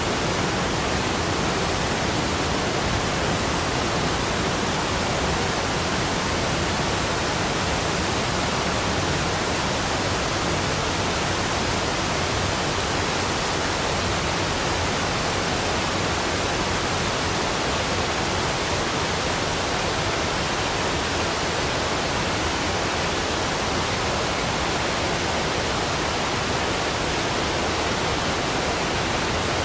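Waterfall rushing in a steady, unchanging wash of white-noise-like sound.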